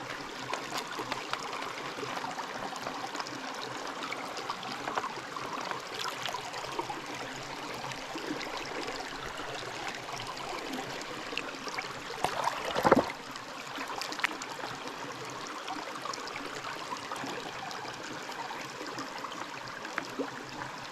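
Creek water running and trickling steadily, with scattered small clicks and one louder knock about two-thirds of the way through.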